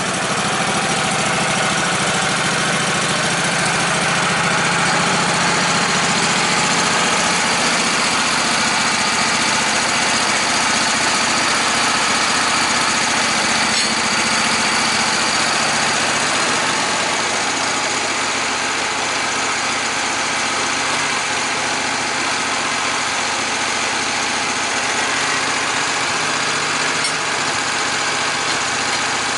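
An engine running steadily just after starting, its low note shifting slightly about halfway through.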